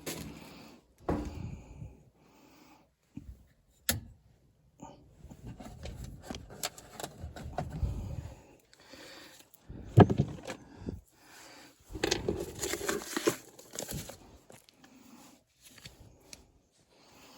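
Intermittent handling noises from work on a furnace: clicks, scrapes and rustling, with one sharp knock about ten seconds in.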